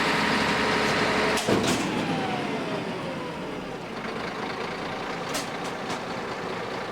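Peterbilt Maxon side-loader garbage truck running at raised revs, then a sharp hiss about a second and a half in, after which the engine winds down to a lower steady idle. Two short hisses of air near the end.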